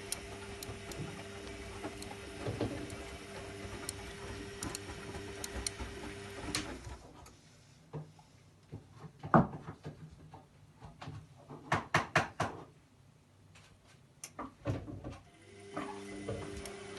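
Zanussi Lindo 100 washing machine tumbling its drum during the main wash, the motor running with a steady hum. The motor stops about seven seconds in, leaving a quieter pause with several knocks and clicks, and it starts turning the drum again near the end.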